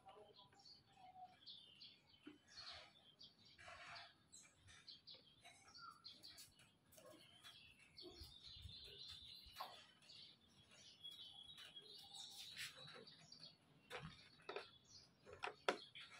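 Faint chirping of small birds over quiet room tone, with scattered light clicks and taps from the plastic licence-plate holder being handled and screwed on. The sharpest clicks come near the end.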